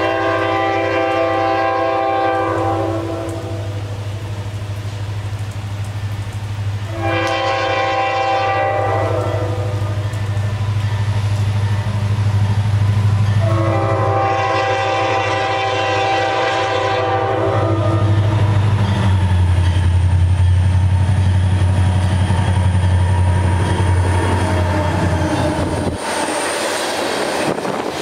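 Diesel freight locomotive sounding its air horn three times, a short blast followed by a longer one, over the steady drone of its engine. The engine note drops in pitch partway through. Near the end the drone falls away and the clatter of the cars' wheels on the rails takes over.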